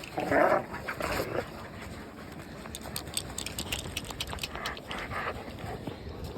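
A dog giving short yelping barks twice near the start during rough play, then quieter scattered clicks and a couple of fainter calls later on.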